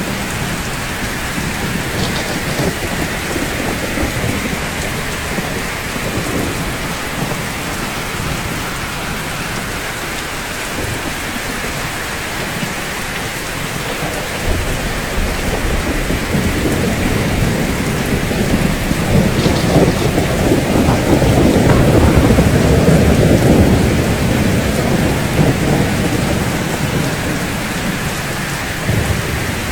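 Steady rain falling, with a long roll of thunder that builds from about halfway, is loudest around two-thirds of the way in and dies away near the end.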